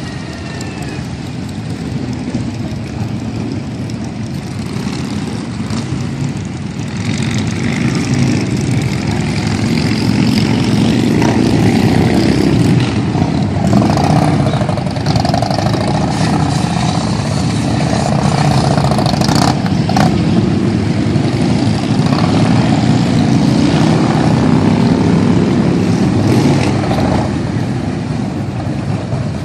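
Harley-Davidson police motorcycles' V-twin engines running at low speed and blipping the throttle during slow tight maneuvers. The engines grow louder about a third of the way in and ease off near the end.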